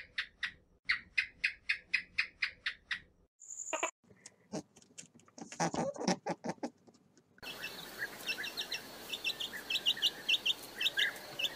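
A fast, even series of short chirps, about five a second, lasting about three seconds. Then a brief high whistle, scattered clicks and a short noisy burst. From about two-thirds of the way in, young chicks peep repeatedly in quick high calls over a steady background hiss.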